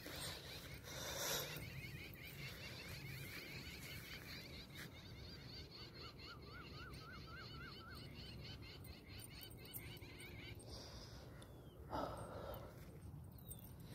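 Faint birdsong in open country: rows of quick, repeated high chirps, with a rapid warbling trill about six seconds in. Two brief rustling noises stand out, about a second in and near the end.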